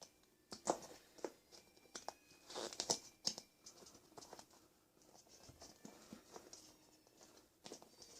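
Rubber RC crawler tire being worked by hand onto a plastic short-course wheel, a tight fit: faint irregular rubbing, scraping and clicking, with the loudest scrapes about two to three seconds in.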